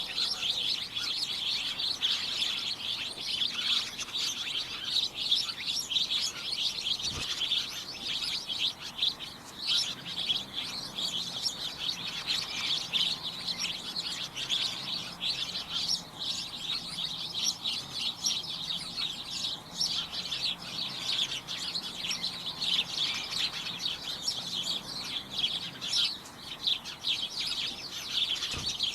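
A flock of small birds chirping and tweeting all at once, a dense, unbroken chatter of short high calls.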